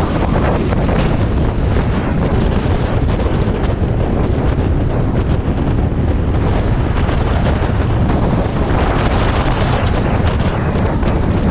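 Heavy wind rushing over the microphone of a moving motorcycle, over the steady running of a Harley-Davidson Iron 1200's air-cooled V-twin engine.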